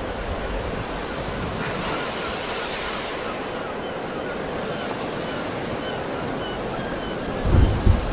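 Sea waves breaking and washing in, with a swell of surf hiss about two seconds in. Wind buffets the microphone with low rumbles near the end.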